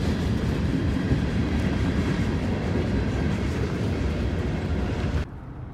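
Freight train passing, a steady rumble of rolling cars that cuts off abruptly about five seconds in.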